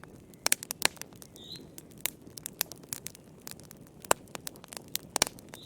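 Wood fire crackling in a fireplace: irregular sharp pops and snaps over the soft low rush of the flames, with a few loud pops about half a second in, near one second, at about four seconds and just after five seconds.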